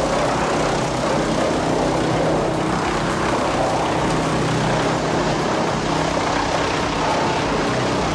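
Large wood chipper running steadily: a droning engine under an even rushing noise.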